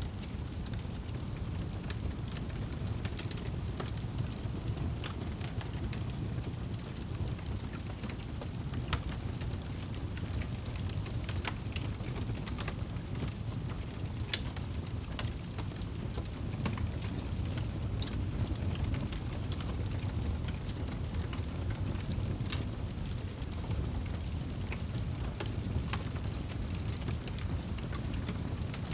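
Crackling fire, irregular sharp snaps and pops, over the steady hiss and low rumble of rain.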